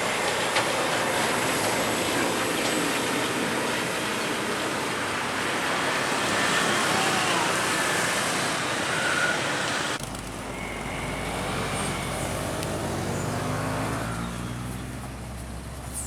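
Highway traffic: a steady rush of passing vehicles and tyre noise. About ten seconds in it changes abruptly to the low running of a heavy truck engine, its pitch bending up and down as it passes, then easing off near the end.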